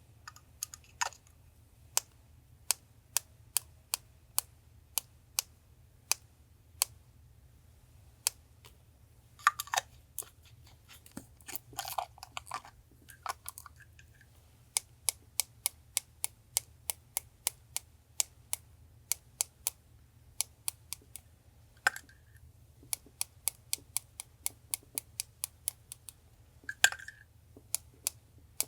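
Scissors snipping paper in a long run of sharp clicks, about one to three a second with a few short pauses, and paper rustling briefly now and then. A refrigerator hums low and steadily underneath.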